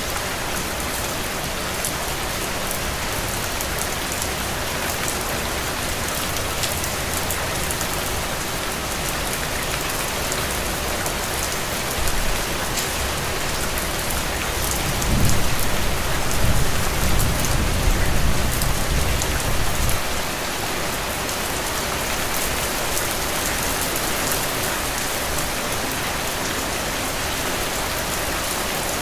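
Heavy, steady rain falling on soil and puddles. A low rumble rises over it for about five seconds past the middle, then fades.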